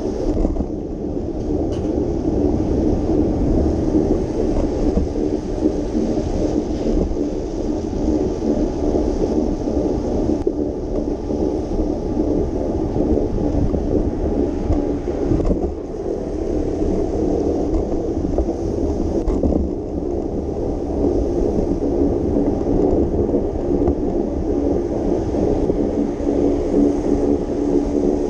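Steady low rumble of riding a bicycle on wet city roads: wind buffeting the microphone over the noise of tyres and road, with no distinct separate events.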